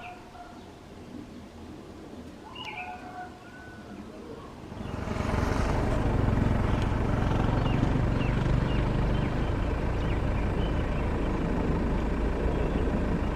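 A Boeing 777-300ER's GE90 jet engines: a loud rumble that rises quickly about five seconds in, then holds steady as the airliner departs. Before the rumble, a few short bird chirps are heard over quieter background noise.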